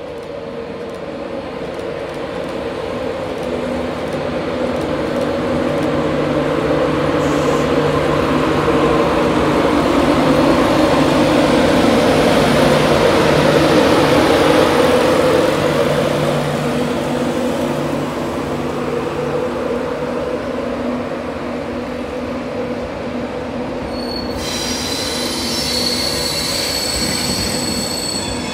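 Train passing, its rumble and hum growing louder to a peak about halfway through and staying loud. About four seconds from the end, high-pitched wheel squeal sets in.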